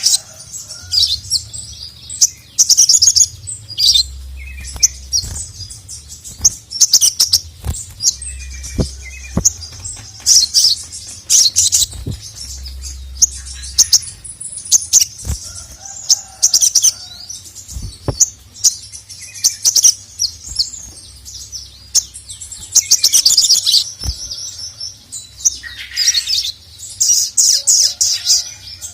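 Sogok ontong (ruby-cheeked sunbird) singing in fast, high-pitched twittering phrases with short gaps between them. Sharp clicks are scattered through the song.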